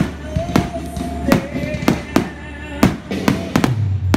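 Aerial fireworks bursting in quick, irregular succession, about two sharp bangs a second, over music with a steady deep bass and a held melody.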